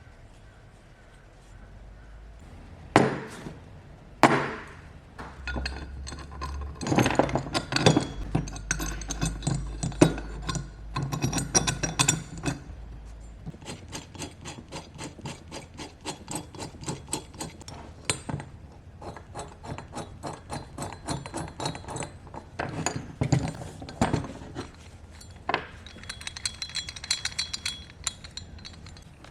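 Hand tools and metal parts being handled at a workbench: sharp clinks and knocks, with long runs of rapid, even clicking through the middle.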